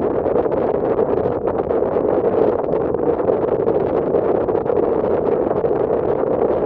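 Steady running noise of a passenger ferry under way: the drone of the vessel mixed with wind and rushing water, even throughout with no distinct events.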